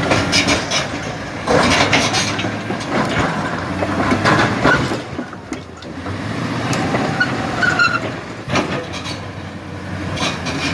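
Bulldozer running, its engine droning steadily under repeated knocks and rattles.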